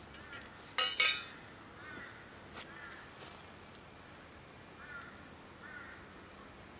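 Birds calling: two loud calls in quick succession about a second in, then faint short chirping calls repeating every second or so.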